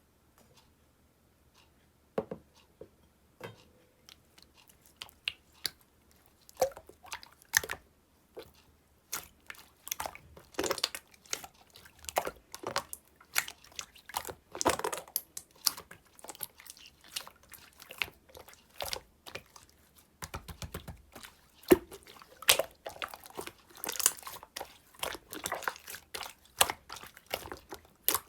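Clear slime being squeezed and pressed by hand, giving irregular wet clicks, pops and squelches. They come sparsely at first and grow busy after a few seconds.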